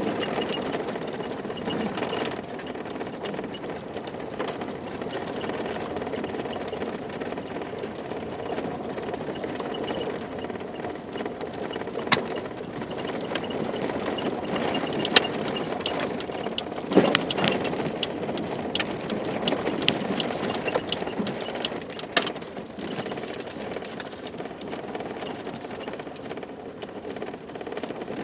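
Steady road and cabin noise of a vehicle being driven, with scattered clicks and rattles through the middle stretch.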